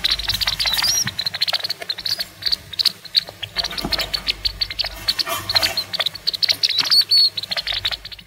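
Degus squeaking in rapid high-pitched chirps, many a second, with a few rising squeals about a second in and again near the end, as two of them scuffle.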